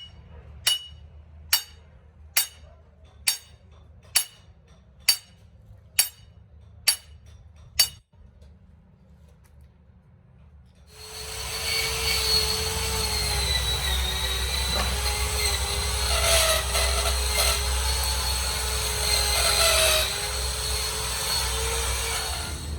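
About ten sharp metallic strikes, evenly spaced a little under a second apart. After a short pause, a power tool starts up and runs with a steady whine that dips in pitch a couple of times as it takes load, then cuts off suddenly.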